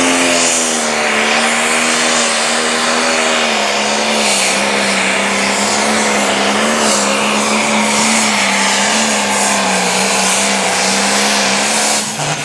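Turbocharged diesel engine of a limited pro stock pulling tractor running flat out under load, a loud, steady engine note that sags slightly a few seconds in and then holds until it briefly drops just before the end.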